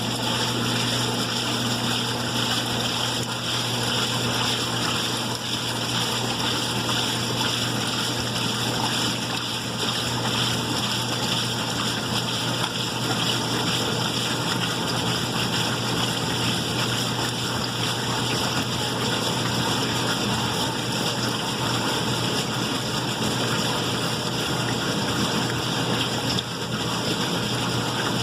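White-Westinghouse washing machine running, a steady low hum with water noise and no change throughout.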